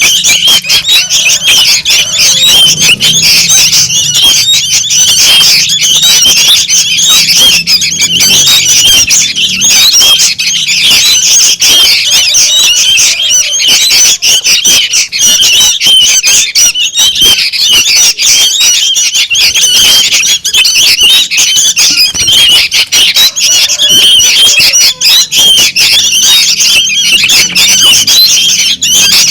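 A noisy flock of young sooty-headed bulbuls calling without pause, many short, rapid chirps overlapping into a dense chatter. It is played as a lure call to draw bulbuls in.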